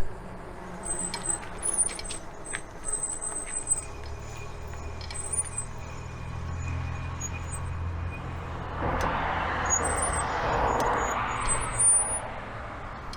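Road and wind noise while riding a fat-tire electric bike, with a motor vehicle passing in a rising rush about nine to twelve seconds in. Short high-pitched squeals from the bike's new brakes come and go.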